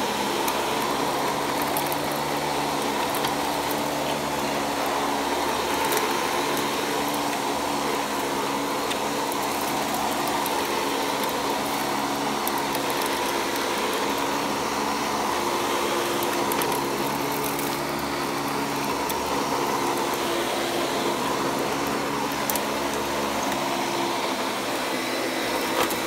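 Panasonic Jet-Flo MC-5155 upright vacuum cleaner with a 6.7 amp motor, running steadily at full speed with its brush roll turning and the base plate off.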